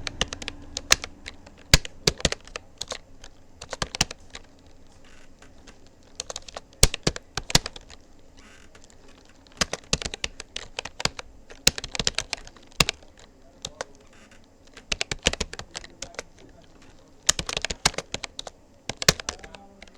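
Typing on a Rapoo computer keyboard: rapid key clicks in bursts of a second or two, separated by short pauses.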